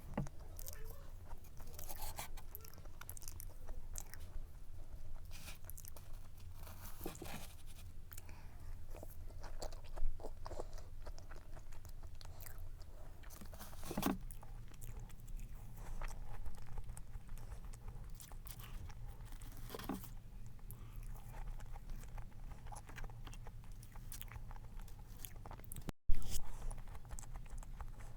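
A person eating cake close to the microphone: soft bites, chewing and light crunching, with scattered small clicks. One sharp knock sounds near the end, over a low steady hum.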